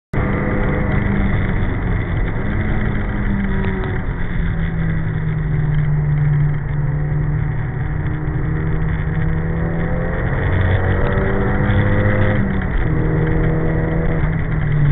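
Nissan Silvia S14's four-cylinder engine at speed, heard from inside the car. The engine note rises under acceleration and drops back at several gear changes and lifts, over steady road and wind noise.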